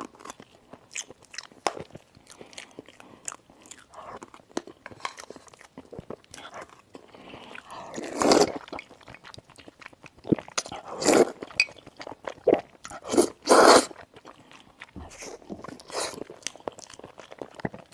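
Close-miked eating: chewing with many small crisp crunches and mouth clicks, and a few louder crunchy bites about eight, eleven and thirteen seconds in.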